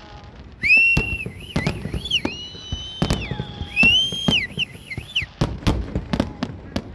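Fireworks banging and crackling, with a loud high whistling that swoops up and down over them in two stretches and a long whistle that falls slowly in pitch between them.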